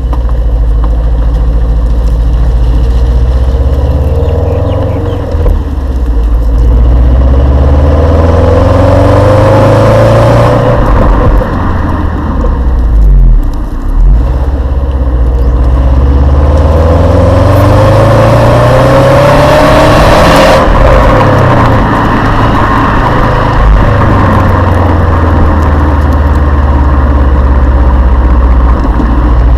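Exhaust note of a Subaru Liberty tuned by STI, a turbocharged flat-four, pulling hard through the gears. Its pitch climbs steadily and then falls away at each gear change: several times, with the longest, loudest pull ending about twenty seconds in. After that it settles into a steadier drone.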